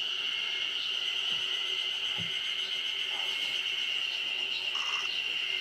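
A steady chorus of spring cicadas (haruzemi) with an even high drone. A few brief bird calls come through near the end.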